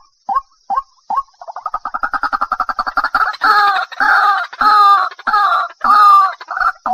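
White-breasted waterhen calling: single short notes about two a second speed up about a second and a half in into a fast run. It then breaks into loud repeated calls, each with several pitch bands, about one and a half to two a second.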